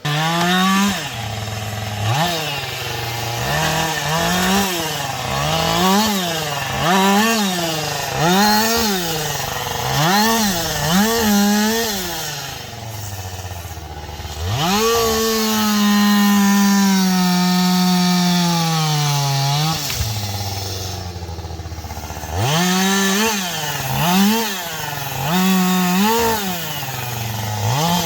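Gasoline chainsaw revved up and down in quick bursts, a little over one a second. About fifteen seconds in it is held at full throttle for some five seconds, its pitch slowly sagging, then it drops back to idle. The quick revving resumes near the end.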